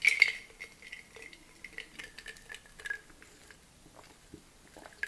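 Light clinks and taps of a glass and tableware being handled: one sharper clink at the start, then scattered small clicks.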